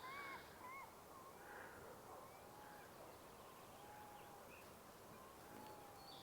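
Faint birdsong over a quiet outdoor hiss: a few short arched whistled notes near the start, then several longer slurred notes spaced a second or two apart.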